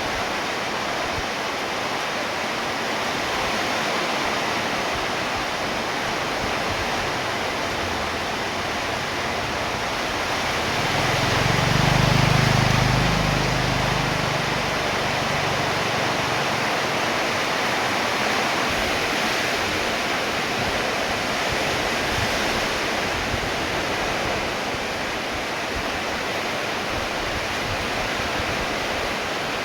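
Rain falling steadily, an even hiss. About eleven seconds in, a low rumble swells for a few seconds and then fades back under the rain.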